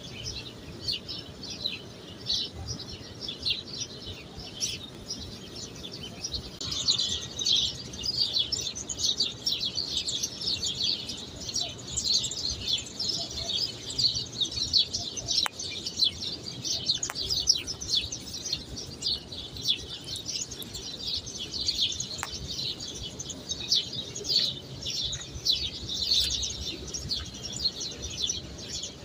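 Many small birds chirping busily and without a break, a dense chatter of short, high chirps that grows busier after several seconds.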